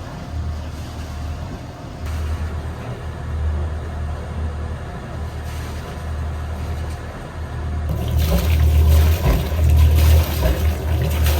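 Sailing yacht under way: a steady low engine drone with water rushing past the hull, the rushing growing much louder about eight seconds in.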